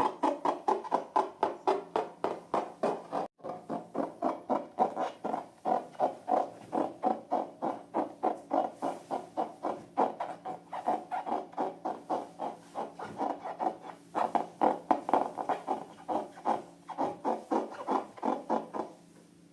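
Rhythmic rubbing strokes, about four a second, with a brief break about three seconds in, stopping near the end.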